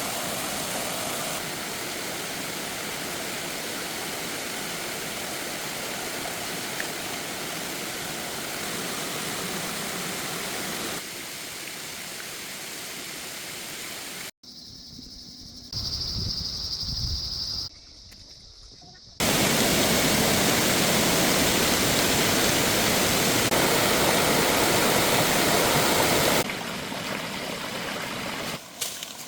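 Rushing water, running steadily and heard in several cuts, loudest in the later part. About halfway through the water drops away and a short high steady tone sounds for about two seconds.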